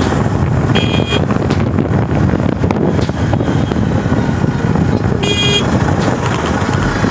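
Jawa Perak motorcycle's 334 cc single-cylinder engine and road noise under way while riding, loud and steady. Short vehicle-horn toots sound about a second in and again around five seconds in.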